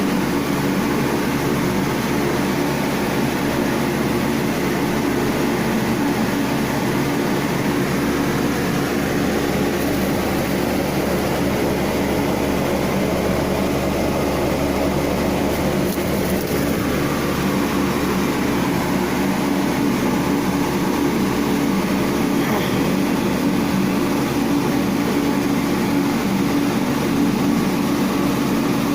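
A steady mechanical hum with a low drone that holds at an even level throughout.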